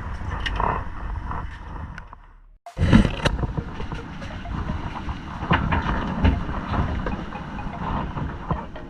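Steady engine rumble and wind-and-water noise on a small fishing boat at sea. About two and a half seconds in it drops out abruptly, then comes back with a loud knock, followed by scattered light clicks and clatters of gear on deck.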